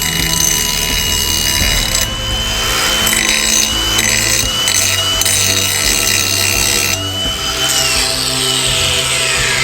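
Ryobi 18V brushless angle grinder running with a grinding wheel against metal, its high whine wavering as the wheel is pressed on. About 8 s in the trigger is released and the whine falls as the wheel spins down.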